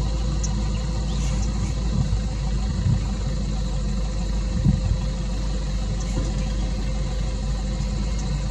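Safari vehicle's engine idling steadily, with a few brief bumps and faint high chirps over it.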